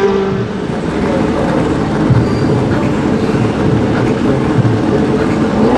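Drag-racing motorcycle engines running, a loud, rough, uneven rumble with no clear pitch.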